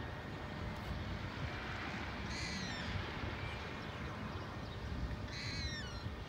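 A bird gives two short, harsh calls a few seconds apart, each falling in pitch, over a steady low rumble of outdoor background noise.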